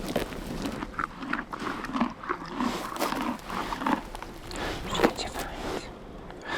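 A horse close by, tearing and chewing grass in a run of short crunches and snaps.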